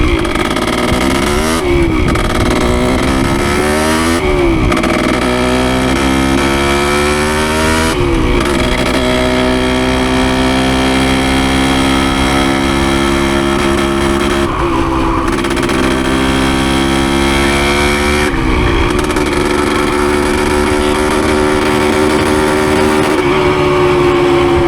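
1973 Yamaha CT3's 175 two-stroke single-cylinder engine under way, ridden gently while the freshly rebuilt engine breaks in. The engine pitch climbs after each of several brief dips where the rider shifts up or eases off the throttle.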